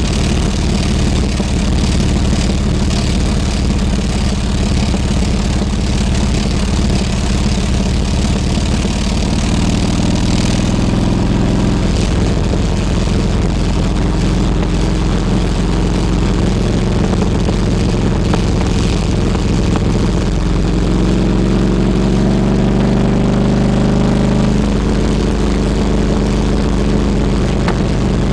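Harley-Davidson Road King Classic's V-twin engine running steadily. About two-thirds of the way through, its pitch climbs for a few seconds as it revs up, then drops suddenly.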